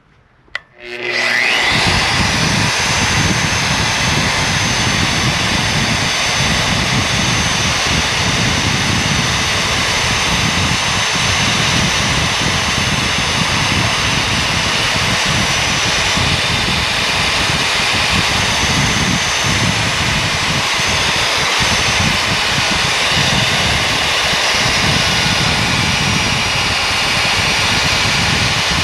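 Magnetic-base drill starting with a click and a rising whine, then running steadily under load as its annular cutter bores through steel plate with coolant fed to the cut.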